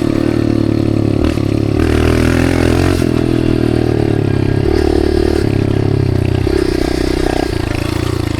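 Dirt bike engine running loud and steady while being ridden, its pitch rising and easing a little several times with the throttle.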